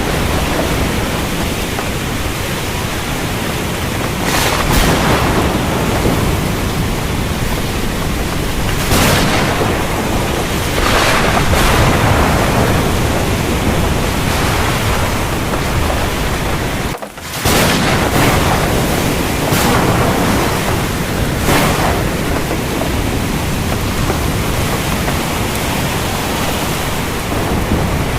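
Heavy rain falling as a dense, steady hiss that swells in intensity every few seconds. The sound cuts out for a split second about 17 seconds in, then resumes.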